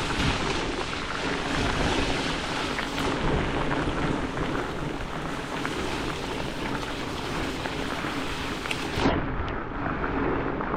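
Steady noise of heavy rain, with a low rumble of wind on the microphone.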